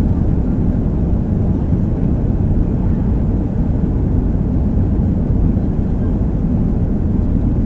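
Airbus A320 jet engines at takeoff power, a loud, steady low rumble.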